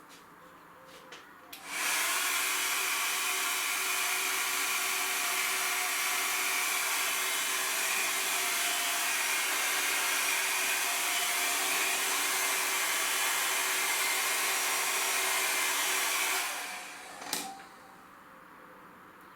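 A hair dryer blows steadily for about fifteen seconds. It switches on suddenly a couple of seconds in, then winds down and clicks off near the end.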